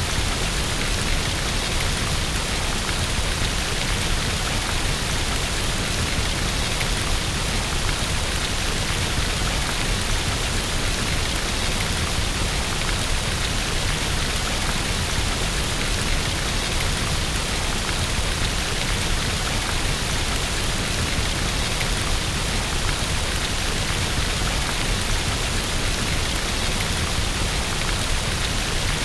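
Steady rain falling against a window: an even, unbroken hiss with no distinct thunderclap.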